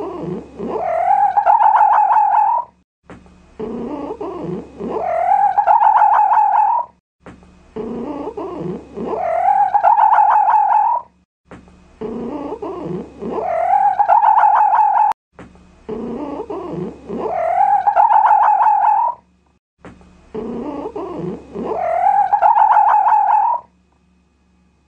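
An animal's call, repeated six times at even spacing about every four seconds. Each call is a short, low, broken opening that rises into a long, wavering whine and then cuts off abruptly, like a looped recording.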